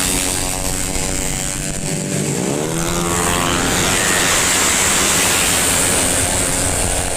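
Tuned 130 cc racing scooter engines revving past at speed, their pitch climbing as they accelerate, about three seconds in most clearly, over a steady high rushing noise.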